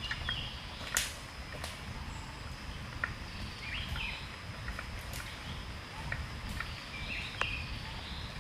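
Forest ambience: a few short bird calls, scattered sharp clicks and snaps, and a steady high insect drone over a low rumble.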